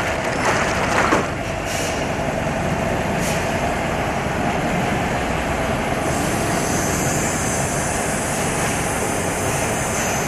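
Steady, loud workshop noise from factory machinery, with a few sharp knocks in the first second and a high hiss, like escaping compressed air, that sets in about six seconds in.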